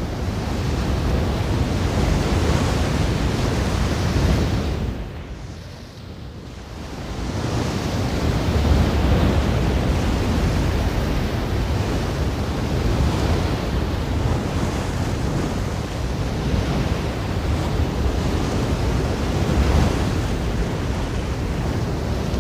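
Sea waves washing in, a continuous rushing noise that drops away about five seconds in and swells back up a couple of seconds later.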